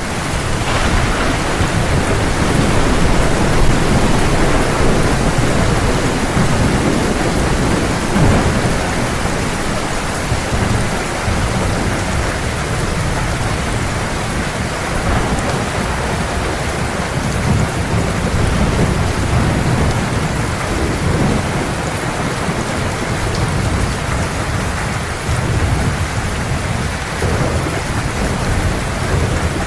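Heavy, steady rain falling in a thunderstorm, with low rolling thunder swelling under it several times, strongest a few seconds in.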